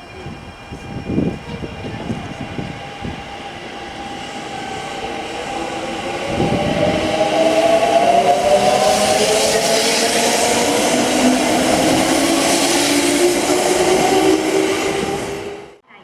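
Kintetsu electric train pulling away, its traction motors whining in several tones that rise steadily in pitch as it accelerates and grows louder. The sound cuts off suddenly near the end.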